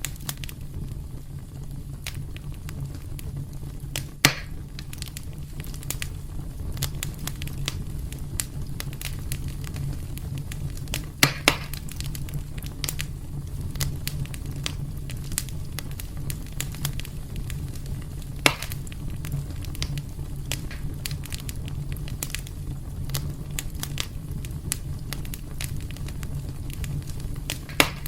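Wood fire burning in a fireplace: a steady low rumble of flame under constant small crackles and snaps, with a few louder pops, one about four seconds in, two close together near the middle, one later and one near the end.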